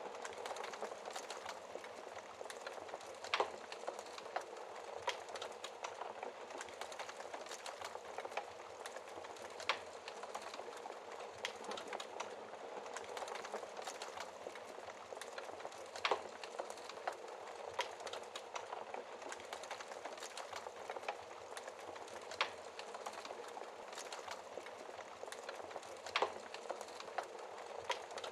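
Wood fire crackling in a fireplace: a steady hiss of burning with a constant scatter of small crackles and a few louder sharp pops every few seconds.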